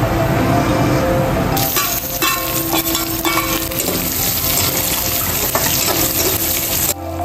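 Whole spices and sliced onions sizzling in hot oil in an aluminium kadai, with a metal slotted spoon scraping and clinking against the pan as they are stirred.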